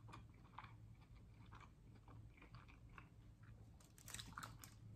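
Faint close-up chewing of a mouthful of fast food, with small crunchy clicks. About four seconds in, a short burst of handling noise as food is picked up off the foil-lined tray.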